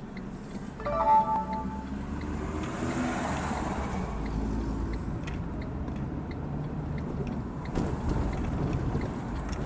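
Car engine and road noise, steady and low, with a short, loud tone about a second in.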